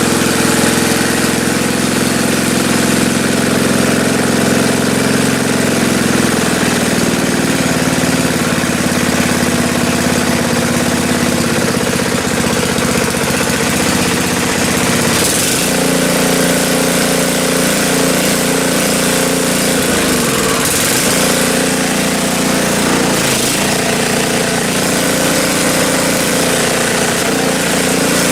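Toro snowblower's small gas engine running steadily. Its speed shifts about six seconds in and again about fifteen seconds in, then sags briefly twice later on.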